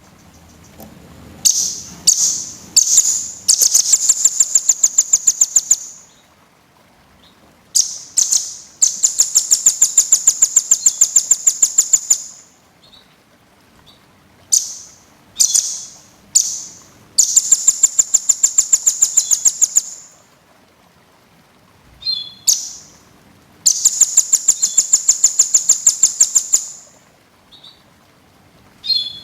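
Small songbird singing in repeated high-pitched phrases: a few short separate notes, then a rapid, even trill lasting a few seconds, four times over with brief pauses between. A dense birdsong tutor recording used to train caged songbirds.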